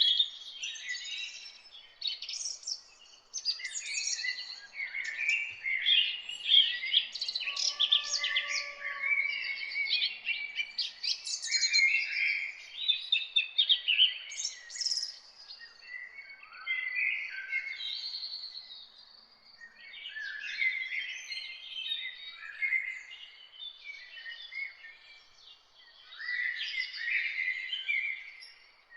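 Several songbirds singing and chirping at once, a dense chorus of short high chirps and trills that comes in bursts with brief lulls.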